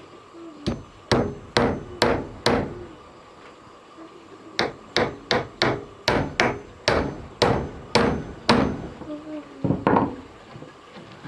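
Hammer blows: about five strikes, a pause of about two seconds, then a quicker run of about ten more, with a few weaker knocks near the end.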